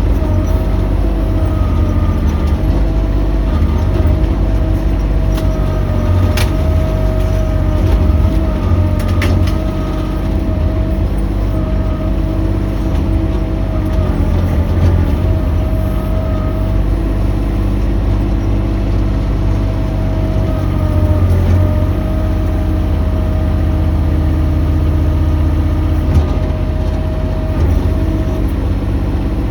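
Mini excavator running steadily under work, its engine drone overlaid by a steady high whine that wavers slightly, with two brief sharp clicks partway through.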